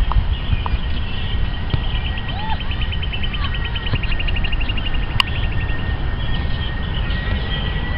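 Birds chirping, with one rapid trill of about ten notes a second in the middle, over a steady low rumble. A thin, steady high whine comes in about three seconds in and holds.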